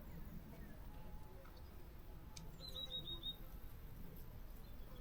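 A small bird calling: a quick run of about five short, high, slightly falling notes about two and a half seconds in.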